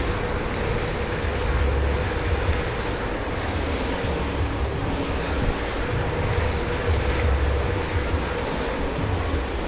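Water spraying and rushing steadily in a commercial dish pit, with a constant machine hum underneath.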